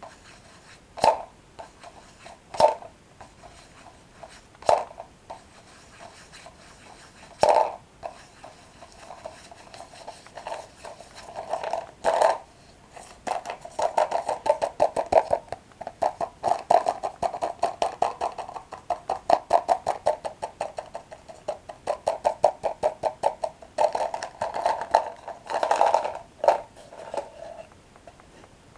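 Close-miked eating of toasted breadsticks. There are a few sharp crunching bites a couple of seconds apart, then from about halfway a long run of rapid, steady chewing crunches.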